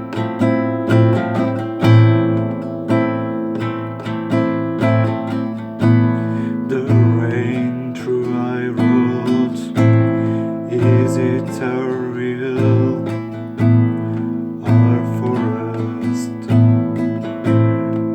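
Classical guitar playing a slow, atmospheric arrangement of a black metal song, with plucked notes and strummed chords in a steady rhythm. In the middle a wordless sung line with vibrato rides over the guitar.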